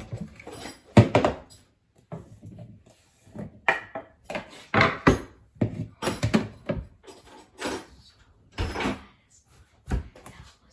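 A series of irregular knocks and thuds, about ten in all, each sharp and short.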